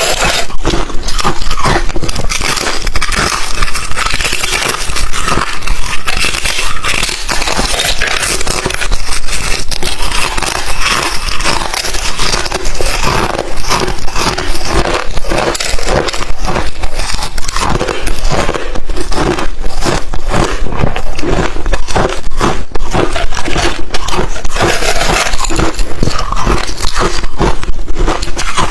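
A person chewing crushed thin chip ice up close to the microphone: continuous loud crunching and crackling as the hard ice breaks between the teeth.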